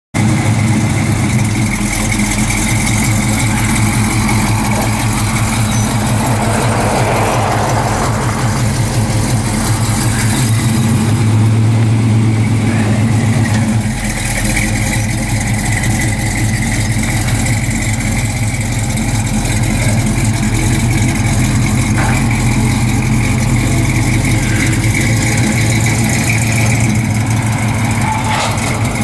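1966 Chevy pickup truck's engine idling steadily.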